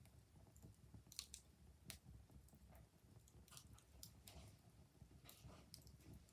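Faint fire crackling, with irregular small pops and snaps over a low steady rumble.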